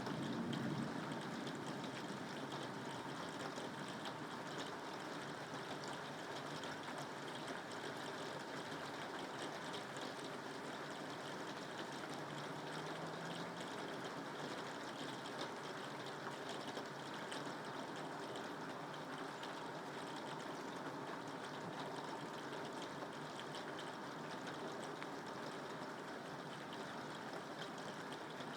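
Steady rain falling, an even continuous hiss of water with no pauses.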